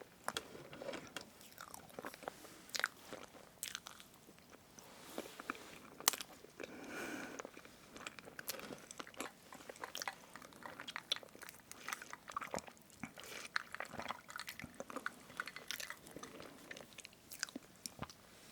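Close-miked chewing and wet mouth sounds of someone eating strawberry whipped-cream cake, with scattered sharp clicks throughout.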